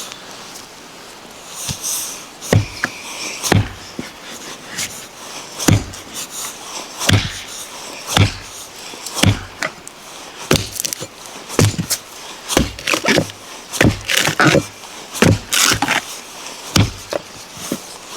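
Axe chopping wood: a run of sharp, irregular thwacks about a second apart, each with a dull thud.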